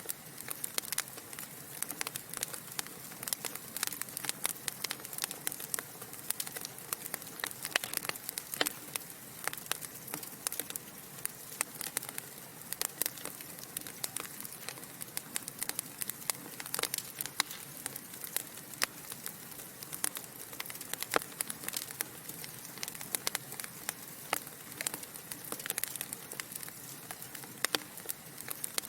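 Wood fire burning in a fireplace: a steady soft hiss with frequent sharp, irregular crackles and pops from the burning logs.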